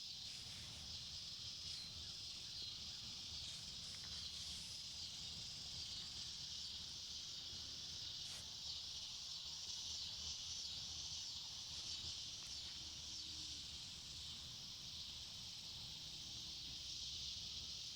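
A continuous high-pitched insect chorus droning steadily in the woods, over a faint low rumble of wind.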